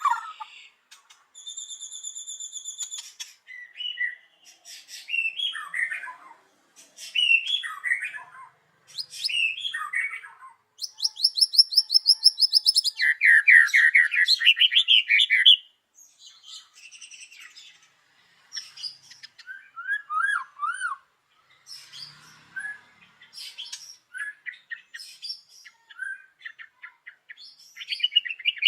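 White-rumped shama (murai batu) singing a varied song of clear held whistles, slurred phrases and fast rattling trills, with short pauses between phrases. The loudest part is a long, fast trill about halfway through.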